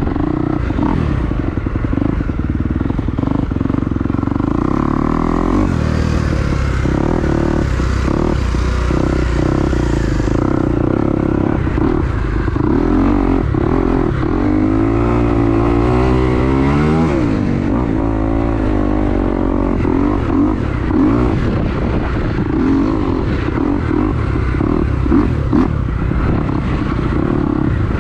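2022 Kawasaki KX250's single-cylinder four-stroke engine revving up and down as the dirt bike is ridden around the track, its pitch climbing and dropping with throttle and gear changes. Wind buffets the microphone underneath.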